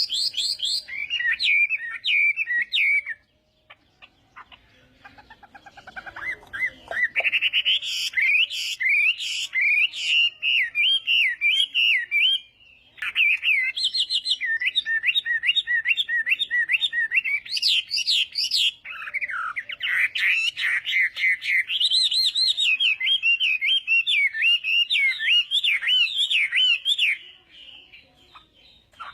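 Chinese hwamei (Garrulax canorus) singing a loud, varied song of rapid whistled phrases and quick repeated notes. It comes in three long bouts, separated by a pause of a few seconds early on and a brief break near the middle, and stops shortly before the end.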